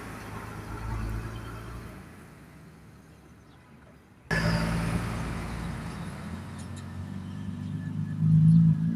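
Container truck engines on the road: one truck's engine fades away as it passes. Then, after a sudden cut, another truck's engine is heard running, growing louder as it approaches.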